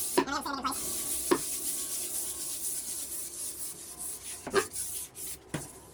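Shop towel rubbing over a wooden countertop, spreading teak oil, with a few light knocks along the way.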